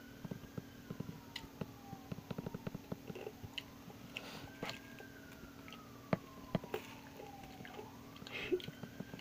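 Close-up crunching and chewing of Nerds hard candy, a rapid scatter of sharp small clicks. A siren wails faintly behind it, rising and falling slowly over a few seconds at a time.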